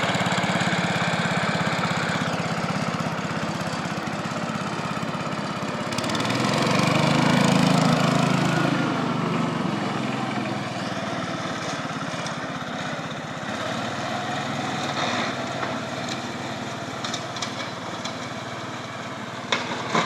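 Cub Cadet mower engine running steadily. It gets louder for a couple of seconds about six seconds in, then settles back. Near the end come a few sharp knocks.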